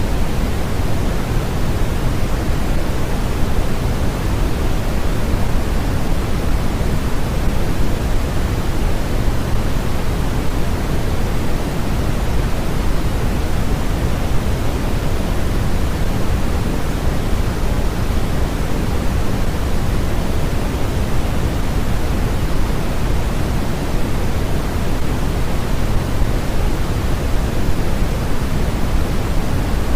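Steady, unchanging sleep-track noise without any events, a deep hiss heavier in the bass than in the treble, nearer pink noise than pure white noise.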